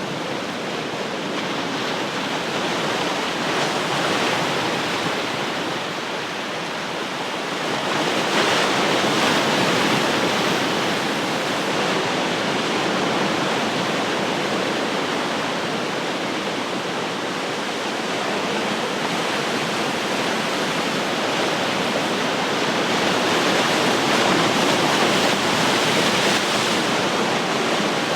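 Ocean surf: a continuous wash of breaking waves, swelling with each incoming wave.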